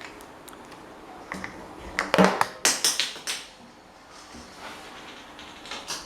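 A handful of sharp clicks and knocks, bunched together about two to three and a half seconds in, with a few fainter clicks around them.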